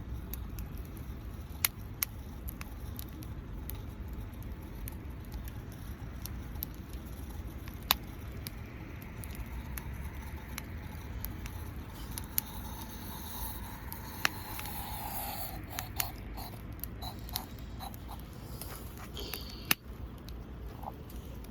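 Wood campfire crackling: irregular sharp pops and snaps over a low rumble. A softer hiss is heard for about three seconds past the middle.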